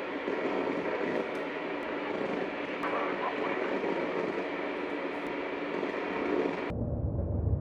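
AM radio tuned between stations, hissing with static and broken by sharp crackles and pops picked up from lightning discharges. Near the end the hiss cuts off suddenly and gives way to a low rumble.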